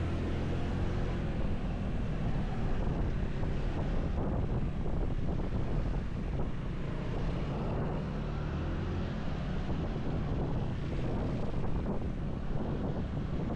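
Motorcycle engine running at a steady road speed, with wind rushing over the microphone.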